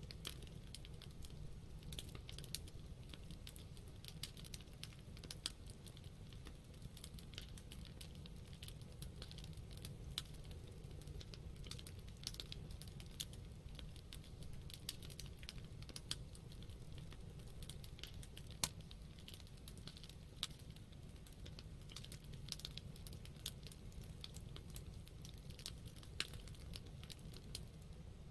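Wood campfire crackling: irregular sharp pops and snaps over a low steady rumble, with one louder snap about two-thirds of the way through.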